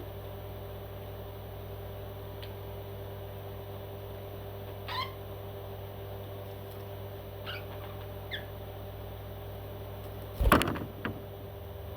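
Short falling calls from a parrot, three of them in the middle, over a steady electrical hum. A louder, sudden sound comes about ten and a half seconds in.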